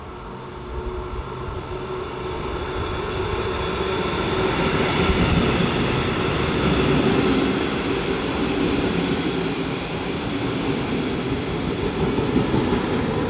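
A train passing, growing louder over the first few seconds and staying loud, with steady humming tones running under the noise of the train.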